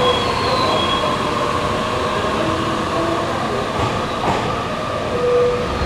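Two-car electric commuter train running slowly alongside the platform as it pulls in and brakes, a steady rolling rumble with a few brief high squealing tones from the wheels and brakes.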